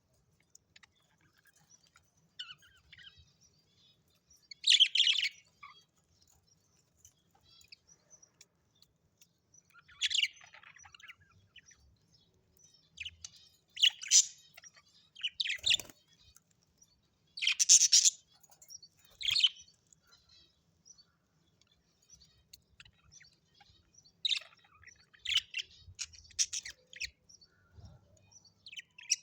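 An Australian parrot chirping in short, separate bursts of high calls, with quiet gaps of a few seconds between them.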